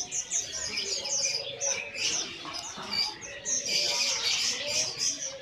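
Many caged songbirds chirping at once, a dense overlapping chatter of short high chirps that grows busier and louder around four seconds in.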